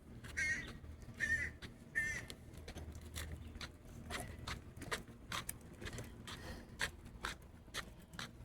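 A bird calling from a tree: three short raspy calls about 0.7 s apart in the first two seconds, then a run of many short sharp ticks.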